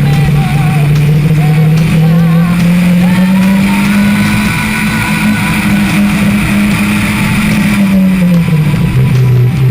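Car engine under acceleration, its pitch climbing steadily for several seconds and then dropping about eight seconds in as the revs come down. Rock music plays underneath.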